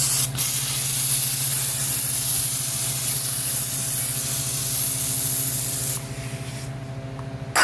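Aerosol can of SuperTech parts cleaner spraying in one long continuous hiss that stops about six seconds in.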